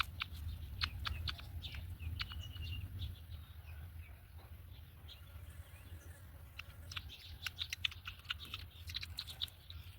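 Black-winged kite chicks in the nest giving rapid, short chirps in bursts, thick near the start and again from about seven seconds in, with one brief held note early on. A steady low hum runs underneath.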